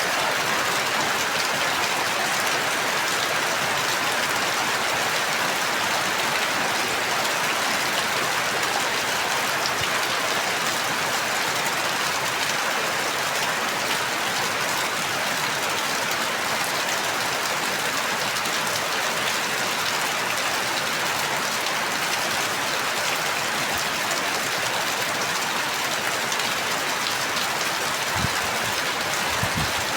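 Steady rain falling, a dense, even hiss that does not change, with two faint low knocks near the end.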